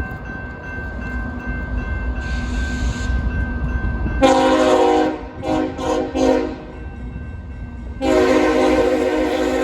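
Freight locomotive approaching with a low rumble, then its Nathan K5HL five-chime air horn sounds. There is one blast about four seconds in, then three quick taps, and a long steady blast starts near the end.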